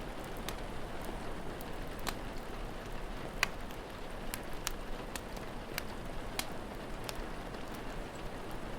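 Steady rain falling, with a wood fire crackling over it in scattered sharp pops, the loudest about three and a half seconds in.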